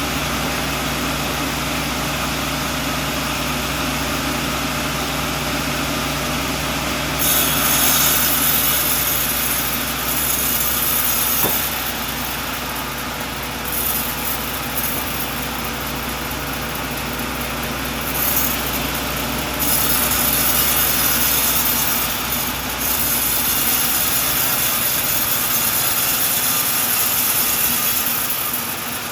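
Sawmill sawing a coconut log: a steady engine hum runs throughout. About seven seconds in, a high-pitched cutting noise starts, and it comes and goes in stretches, lasting longest in the second half.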